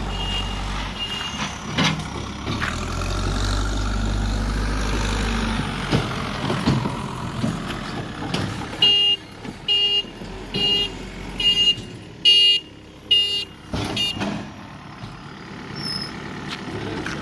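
Heavy diesel machinery engine running steadily, then a run of six or seven loud beeps just under a second apart, like a reversing alarm or beeping horn.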